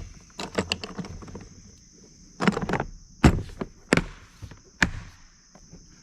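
Knocks and clatter from a plastic Harbor Freight Apache hard case being handled, tipped and shaken to check that the foam-packed gear inside stays put. There are a few scattered knocks early on, then a cluster of louder ones from about two and a half seconds in. A steady high hiss runs behind.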